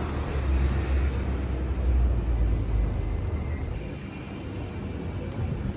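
Outdoor city traffic: a vehicle's low rumble passes under a steady street haze and fades out about three and a half seconds in.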